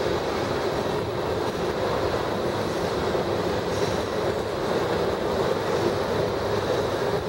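Freight train tank cars rolling past: a steady noise of steel wheels running on the rails.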